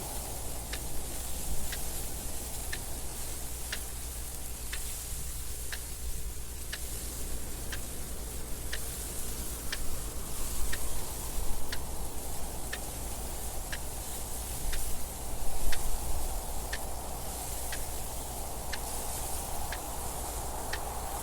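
Clock ticking steadily, about one tick a second, over continuous wind noise that swells briefly twice in the second half.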